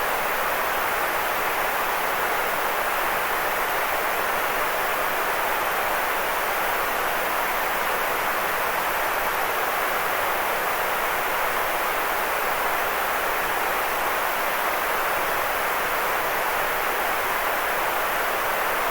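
Steady white noise played as a sleep aid: an even, unchanging hiss, fullest in the middle range and lighter in the bass.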